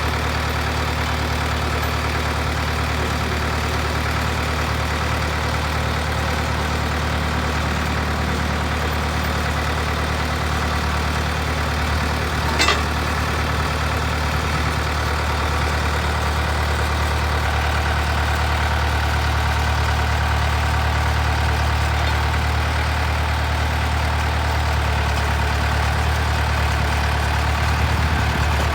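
Ditch Witch 7610 trencher's engine running steadily at idle, with a single sharp click about halfway through.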